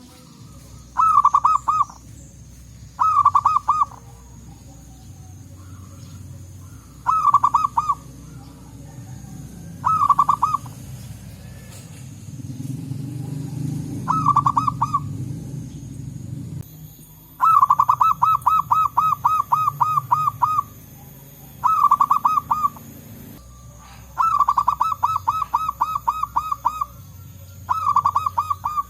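Zebra doves (perkutut) cooing: short bursts of rapid, staccato cooing notes repeated every few seconds, with two longer runs in the second half. There is a low background rumble that swells briefly mid-way.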